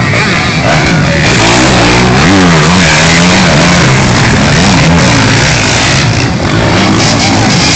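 Motocross bike engines revving hard, several at once, their pitch rising and falling again and again as the riders accelerate and shift.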